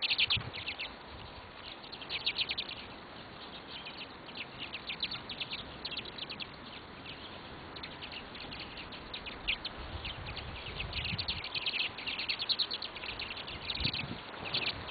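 Small birds chirping: quick series of short, high chirps in bursts, several birds at once.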